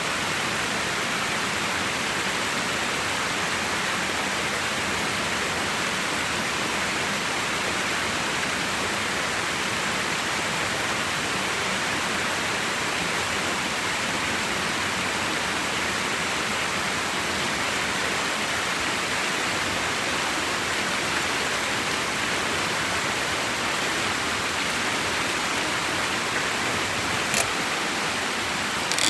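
Steady rush of flowing water, with one short click near the end.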